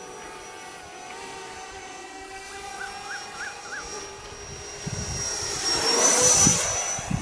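Electric ducted-fan (80mm EDF) jet of an RC Futura model whining steadily, then swelling to a loud rush about five to six seconds in before easing off.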